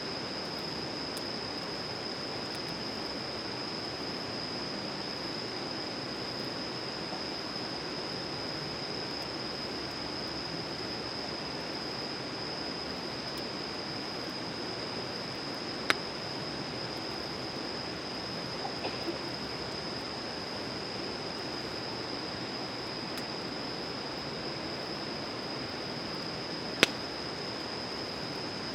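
Wood campfire burning with a steady hiss, broken by two sharp crackling pops and a few faint ticks. A steady high-pitched tone runs underneath.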